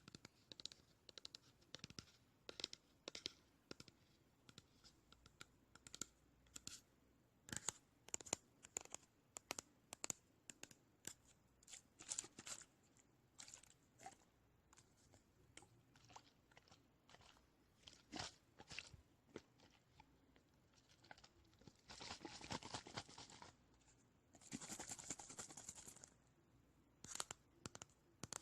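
Faint, close-miked ASMR trigger sounds: irregular quick taps and crisp clicks, with two longer scratchy rubbing passes of about a second and a half each, late on.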